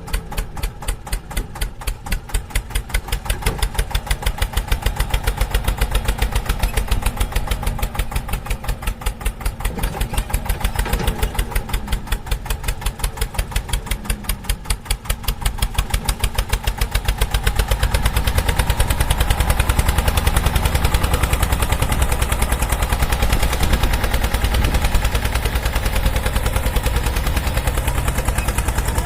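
Tractor engine running, a rapid, even thumping beat, several pulses a second, growing louder about eighteen seconds in.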